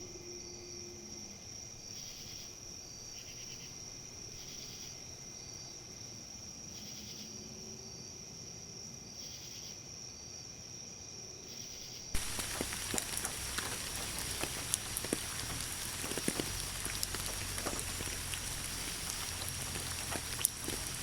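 Insects chirping, with a steady high trill and softer chirps repeating about once a second. About twelve seconds in it cuts abruptly to rain falling, louder, with many individual drops ticking.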